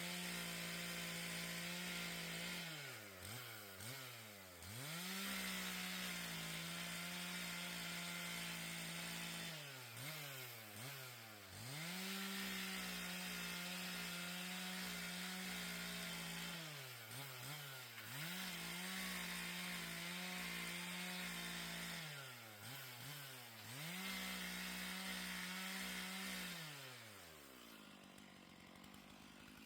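Two-stroke chainsaw cutting firewood from fallen trees, held at full throttle. Its pitch drops and climbs back about four times as the throttle is let off and squeezed again. Near the end it falls back to idle.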